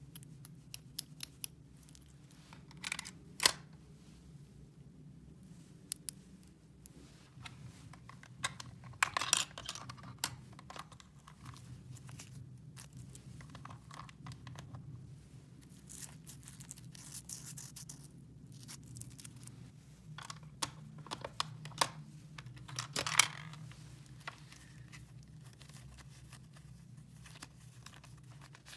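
Small plastic toy pieces and their packaging being handled: scattered clicks and taps with short crinkly rustles and tears, the loudest about nine and twenty-three seconds in, over a low steady hum.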